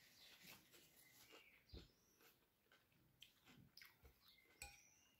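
Near silence: faint chewing and mouth sounds, with a few soft clicks, the loudest near the end.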